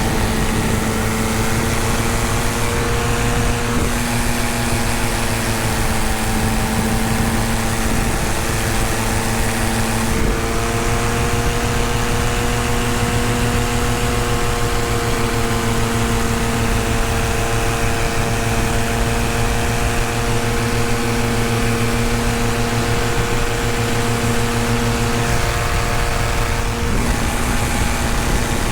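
Paramotor engine and propeller running steadily in flight, with the pitch shifting slightly a few times as the throttle changes, most clearly stepping up about ten seconds in.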